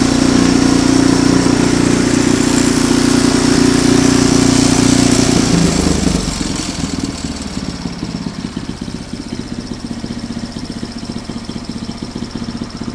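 Ariens Deluxe 28 snowblower's engine running steadily at speed, then about halfway through dropping to a quieter, lower, pulsing run as it is throttled back toward idle.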